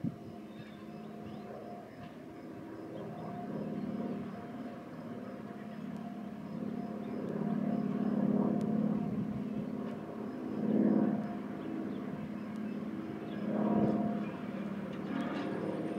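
A train running with a steady, low engine hum that swells louder several times, with faint clicks near the end.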